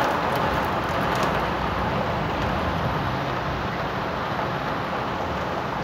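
Heavy downpour during a thunderstorm: a steady, even rush of rain.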